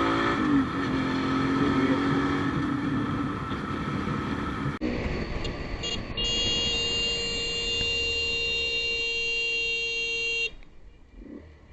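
A vehicle engine running, its pitch dropping and then holding steady; after a cut, a vehicle horn sounds one long steady blast of about four seconds that ends abruptly.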